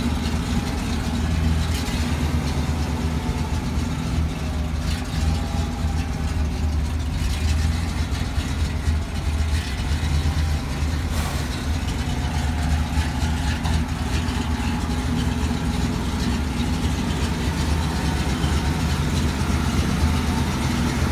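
Ural 375D truck's 7-litre V8 petrol engine running steadily at idle, with no revving.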